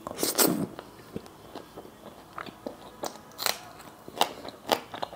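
A person biting into and chewing a mouthful of mutton kosha close to the microphone. A burst of loud clicks as the bite goes in, then chewing with scattered clicks and smacks.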